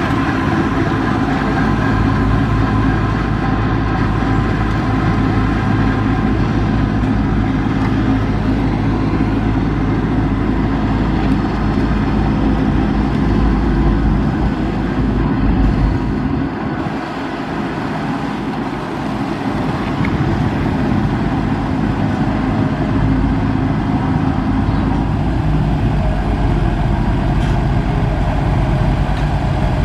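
Heavy construction machine's diesel engine running steadily under work, easing off briefly a little past halfway before settling back.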